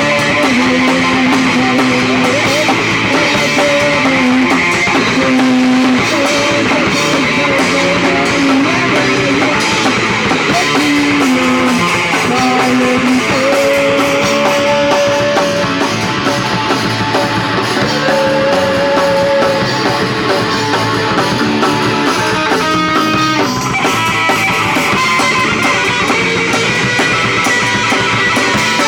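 A live punk rock band playing, with electric guitars over a drum kit.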